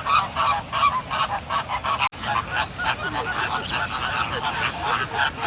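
A flock of American flamingos honking loudly, many goose-like calls overlapping in a rapid, continuous chorus, with a brief cut about two seconds in.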